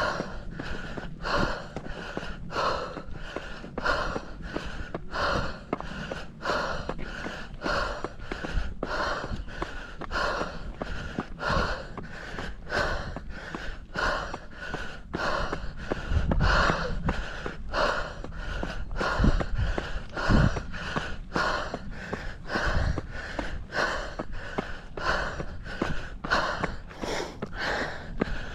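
A runner's heavy, rhythmic panting, about one and a half breaths a second: hard exertion on a steep uphill climb. A few low rumbles come through in the middle.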